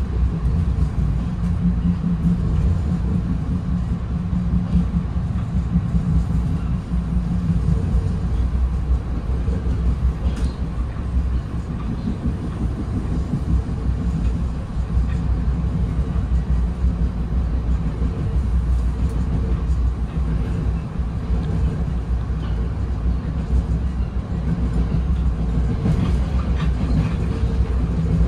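Steady low rumble of wheels on track, heard from inside a Bombardier Comet IIM commuter coach running between stations, with a faint steady hum and a few light ticks and rattles.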